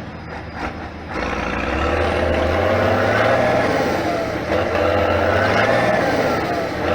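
A competition trial truck's engine working hard under load, getting louder about a second in, with a whine that rises and falls in pitch as the revs change.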